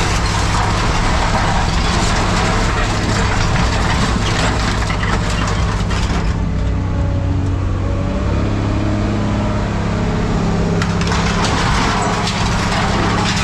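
A heavy engine running steadily while scrap metal clatters and cracks over it; the clatter eases off for a couple of seconds past the middle and then picks up again.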